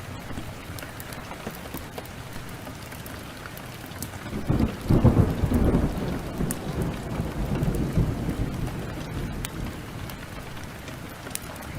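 Steady heavy rain with a rumble of thunder rolling in about four seconds in, loudest around five seconds and dying away over the next few seconds. Sharp crackles and pops from a wood fire sound throughout.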